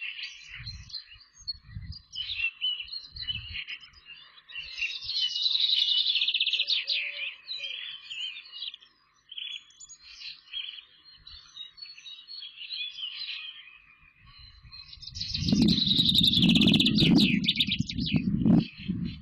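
Birds chirping and trilling in short broken phrases. From about 15 seconds in, a loud low rumbling noise with crackles covers them for about three seconds and then cuts off sharply.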